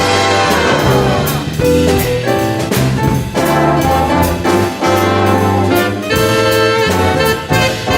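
Jazz big-band music: brass section with trumpets and trombones playing over bass and drums.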